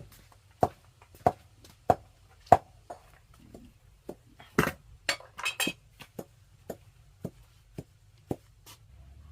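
Repeated sharp knocks at a steady pace, about one and a half a second, with a brief clatter of several knocks about halfway through, then lighter knocks at the same pace.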